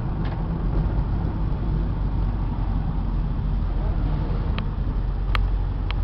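Cab interior of a 2001 Ford F350 with the 7.3 L Power Stroke V8 turbo-diesel cruising on the road: a steady low engine and road rumble, with a few light clicks near the end.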